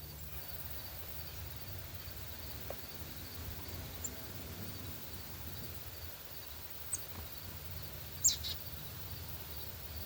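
Outdoor ambience with a steady low rumble and a faint insect chirping evenly about two to three times a second, broken by a few short, sharp high bird chip notes; the loudest, falling in pitch, comes about 8 seconds in.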